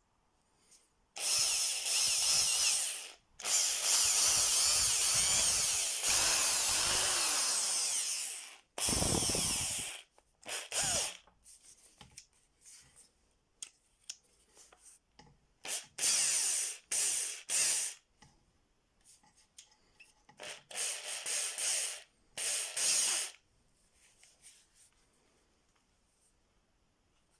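Iskra electric drill running in bursts as its trigger is pulled and released: a run of about two seconds, then a longer run of about five seconds that winds down with falling pitch, then several short bursts. It sounds like a test run of the repaired drill.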